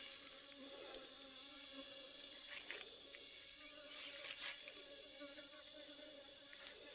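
Faint, steady insect buzzing and chirring, with a few soft ticks.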